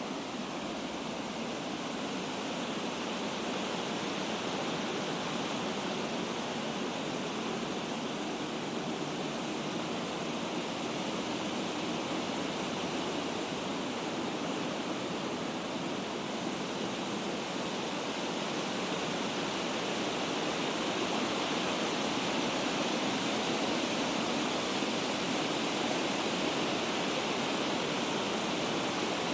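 Steady rush of water pouring down a waterfall, with no breaks, getting a little louder about two-thirds of the way through.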